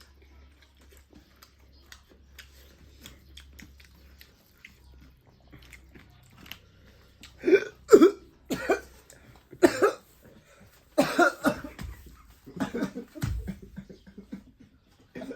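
A person coughing while eating: faint small clicks for the first several seconds, then a run of loud, hard coughs starting about seven and a half seconds in.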